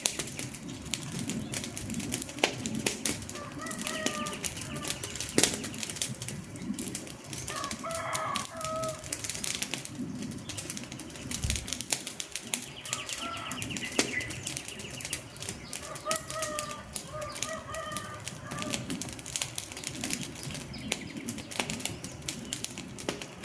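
Wood fire crackling, with a dense run of sharp pops and snaps. A few short bird calls come through several times behind it.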